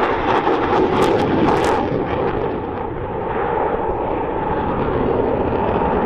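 Dassault Rafale fighter's twin M88 turbofan jet engines, a loud, steady jet noise with sharp crackles in the first two seconds.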